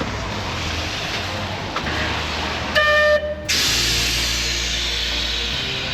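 Steady hiss of an electric tram on the move, with a short, loud pitched tone about three seconds in that breaks off abruptly.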